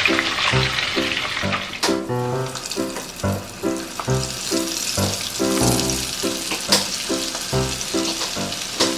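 Chicken pieces frying in a pot of hot oil, with a steady sizzle, under background music with a regular beat. Two sharp clicks come about two and seven seconds in.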